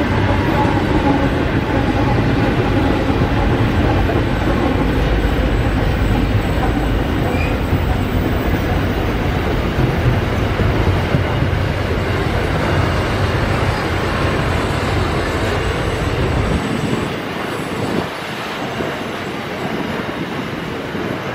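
A diesel-hauled intermodal freight train passing close by: the last locomotive goes by at the start, then loaded container wagons roll past with a steady heavy rumble and wheel clatter. The deepest part of the rumble drops away about three-quarters of the way through, while the wagon noise carries on.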